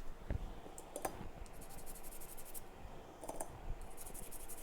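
Small tools working on an iPhone logic board: a few light clicks, then two stretches of fast, fine scratching, as when the board is wiped and cleaned.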